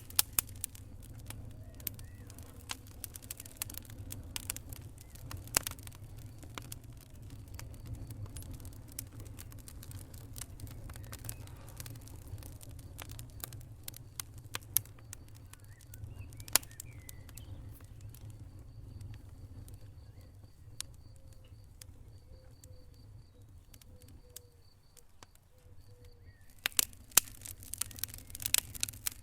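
Wood fire burning in a fireplace: sharp crackles and pops over a low steady rumble of the flames. The popping thins out through the middle and grows busy again near the end.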